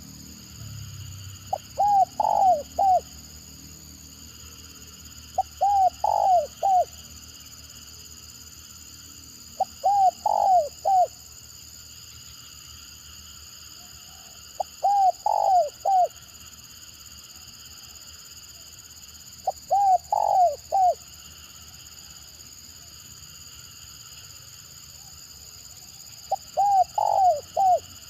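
Spotted dove (tekukur) cooing in its stuttering 'gagap' style: six short phrases, each a quick broken run of three or four coo notes, repeated every four to five seconds.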